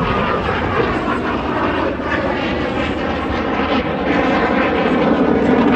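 Aircraft flying over in the airshow's flying display: a steady engine noise that grows louder in the last couple of seconds.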